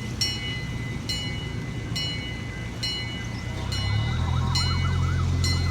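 A bell ringing with a sharp strike about once a second. About four seconds in, the low steady drone of the miniature train's small diesel engine comes in as the train approaches.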